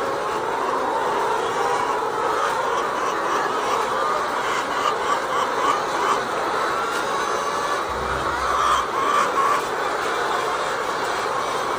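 A flock of laying hens clucking and calling all at once, a steady din of overlapping calls. A brief low rumble comes about eight seconds in.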